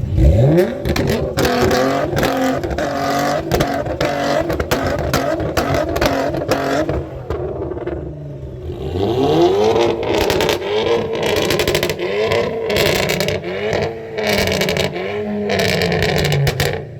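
A car engine revved hard, shooting up in pitch at the start, with sharp crackling pops throughout. In the second half it is blipped over and over, the revs rising and falling about once a second.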